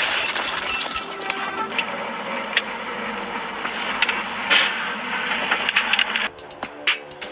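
Dashcam recording of a car crash: a loud rushing noise with scattered cracks and clinks like breaking glass and debris. About six seconds in, electronic music with a steady beat takes over.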